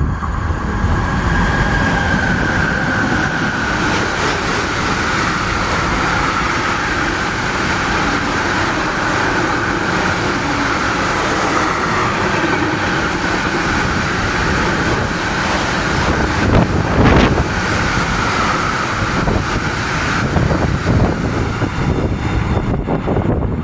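Freight train passing at speed: the steady rumble and clatter of its wagons on the rails, with a high steady tone running through most of the pass. About seventeen seconds in there is a louder burst of rattling, and the noise thins near the end as the train goes by.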